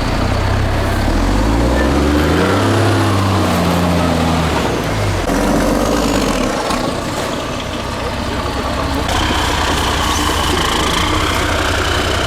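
6x6 MAN trial truck's diesel engine revving up over the first few seconds, then dropping back and running steadily under load, with a high whine climbing in pitch near the end.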